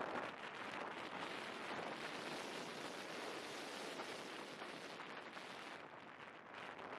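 Wind rushing over the microphone: a steady, even rumble and hiss with no clear engine note, easing a little near the end.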